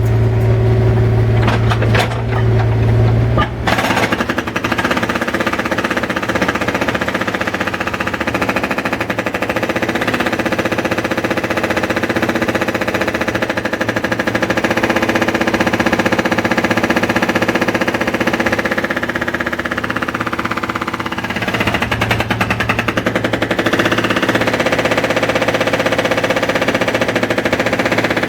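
Construction machinery hammering rapidly and without a break, with a low engine hum that is strongest in the first few seconds and again a little past the 20-second mark.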